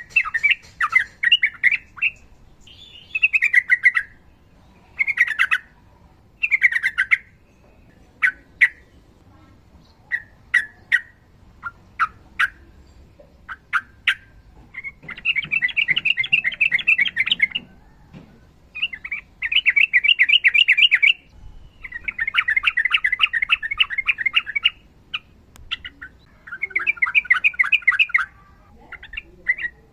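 Yellow-vented bulbul singing. It gives short bubbling phrases at first, then from about halfway in, four long, fast-chattering ropel runs of a second and a half to three seconds each.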